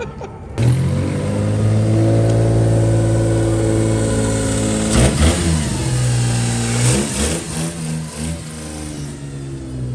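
A motor vehicle engine running steadily, starting abruptly about half a second in, with short revs near the middle and again a couple of seconds later.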